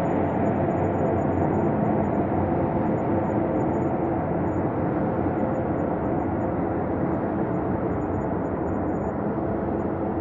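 Synthesized ambient space drone: a steady, dense low hum with several held tones layered through it, easing slightly in level over the stretch.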